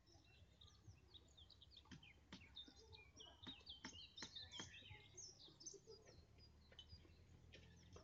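Faint birdsong: many short chirps and whistled notes from several birds, with a few sharp clicks in the middle.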